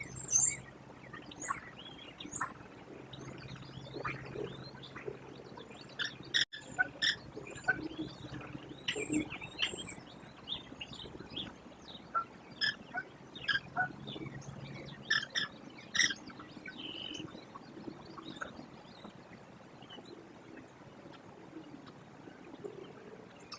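Birds chirping: many short, high chirps in quick runs, busiest in the middle, over a faint low steady hum that fades about fifteen seconds in.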